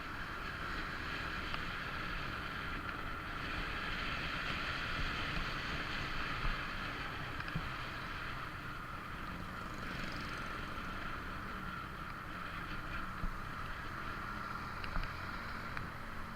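Steady wind and road noise from a moving motorcycle, a low rumble under a hiss.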